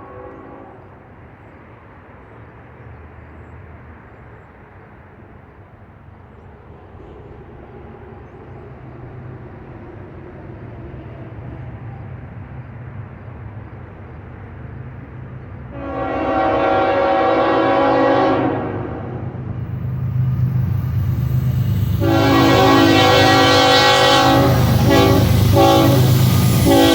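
Diesel freight locomotive approaching, its engine rumble growing steadily louder. Its multi-chime air horn sounds one long blast about two-thirds of the way through, then sounds again near the end as the train draws close, with wheel and rail noise rising under it.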